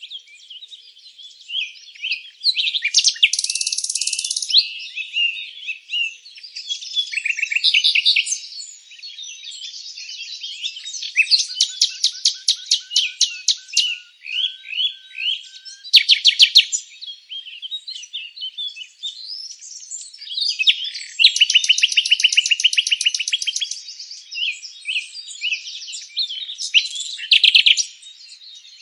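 Several songbirds singing and chirping at once, a dense chorus of overlapping trills, rapid chirp series and whistled notes.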